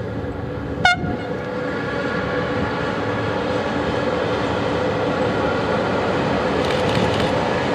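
Approaching train, with a steady whine and rolling noise slowly growing louder, and one short, sharp horn toot about a second in.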